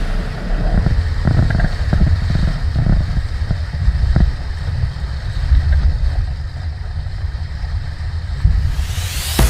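Wind buffeting the microphone on a racing sailing dinghy, a deep uneven rumble with a few sharp knocks in the first half.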